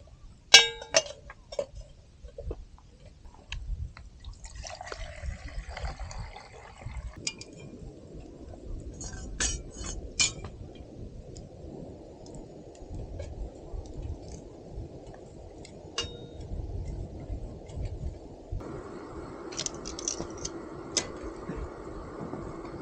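Camp cooking: a few sharp clinks of utensils on cookware, then a steady low hiss from the stove and pan that grows fuller about three-quarters of the way through.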